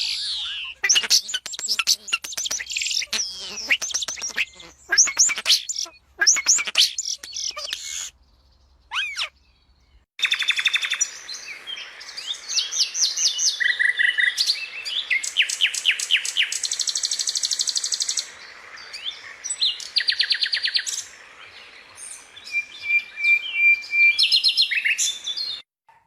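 Nightingale singing: varied phrases of fast repeated notes and trills, with a short pause about eight seconds in.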